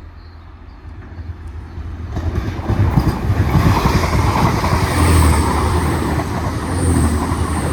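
Two coupled Class 185 diesel multiple units passing through the station: the rumble builds about two seconds in and stays loud, with quick knocks from the wheels on the track.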